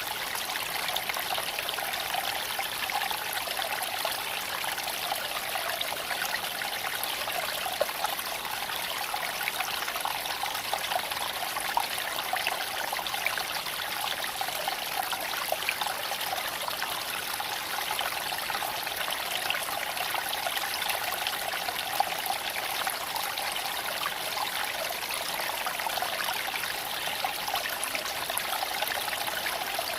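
Shallow creek flowing over stones, a steady babbling rush of water, with a few brief sharp ticks.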